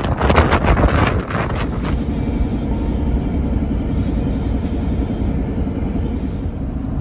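Gusty wind buffeting the microphone, then, about two seconds in, an abrupt change to the steady low rumble of a car driving.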